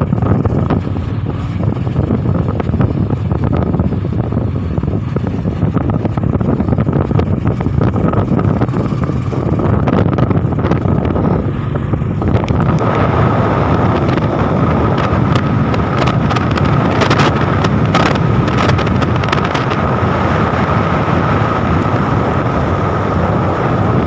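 Wind rushing over the microphone of a moving motorcycle, with engine and road noise beneath; a steady high whine comes in about halfway through.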